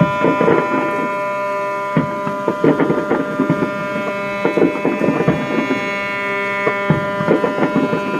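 Ships' horns sounding together in one long steady blast at the New Year's ship-horn salute, with fireworks going off in irregular bangs and crackles over it.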